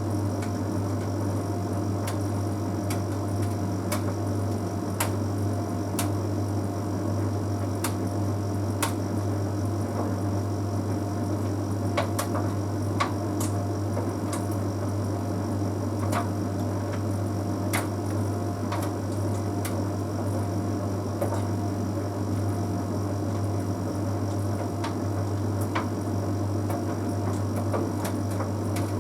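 Bosch Series 6 heat pump tumble dryer running mid-cycle: a steady low hum with a few steady higher tones, and irregular light clicks every second or so.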